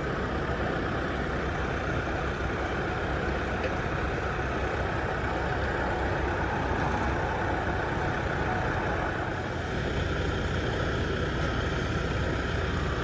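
Steady running noise of a motor vehicle, a low engine rumble with an even road-noise hiss, unchanging throughout.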